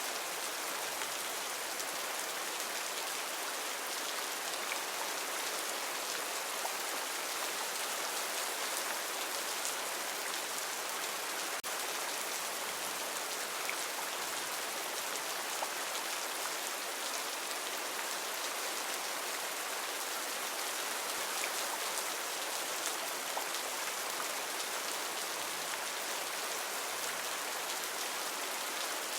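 Heavy rain falling steadily on rainforest foliage, a dense even hiss of drops with no let-up.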